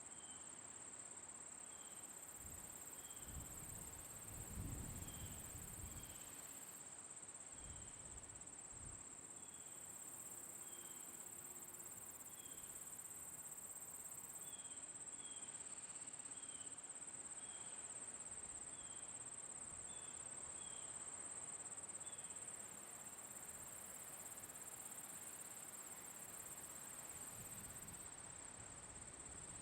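Summer night insects, crickets, in a continuous high-pitched trill, with short chirps repeating about once a second. A couple of brief low rumbles come through about four and eight seconds in.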